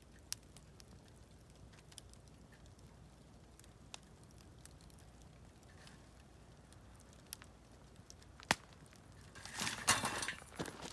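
Campfire burning, with scattered single sharp pops of firewood every second or two, then a louder, denser spell of crackling and rustling for about a second and a half near the end.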